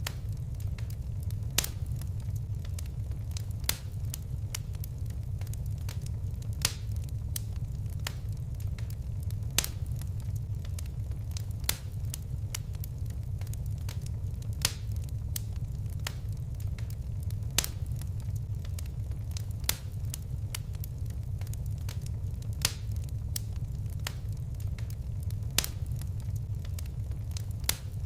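Fire crackling in a fireplace: sharp pops every two to three seconds, many fainter ticks between them, over a steady low rumble of the flames.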